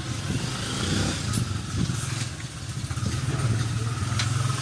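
An engine running steadily at a low pitch, with a few light clicks, about one and a half, two and four seconds in.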